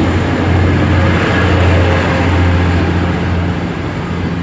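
Class 185 diesel multiple unit pulling away, its Cummins diesel engines under load giving a loud, steady low drone that eases off slightly near the end.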